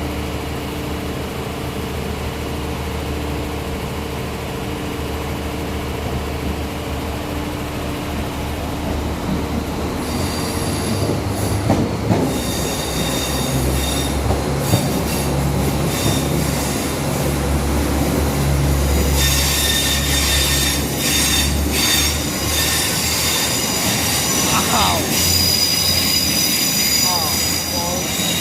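Northern Ireland Railways Class 3000 diesel multiple unit moving past at a station with a low steady engine rumble. About ten seconds in, high-pitched metallic squealing from the wheels joins it, becoming much louder about two-thirds of the way through, loud enough to hurt the ears.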